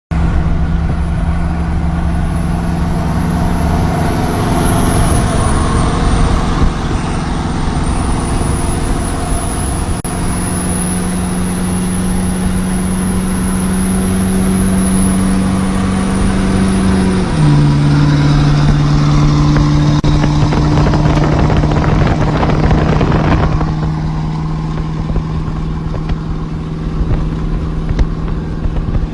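Ford truck engine running steadily; its pitch steps down a little about 17 seconds in. A rushing noise swells over it and stops abruptly about 23 seconds in.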